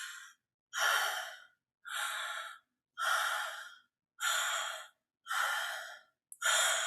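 A woman breathing hard and rhythmically close to the microphone, about one breath a second, each starting sharply and fading, with short silences between. This is a breathwork demonstration of connected breathing: an active inhale and a relaxed exhale.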